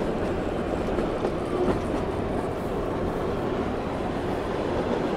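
Narrow-gauge Kalka–Shimla toy train running, a steady noise of wheels on rails and moving coaches, heard from a coach window.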